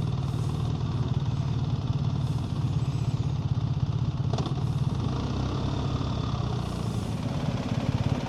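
A BMW GS Adventure's boxer-twin engine running steadily as the motorcycle is ridden, a low, even hum, with a brief tick a little past halfway.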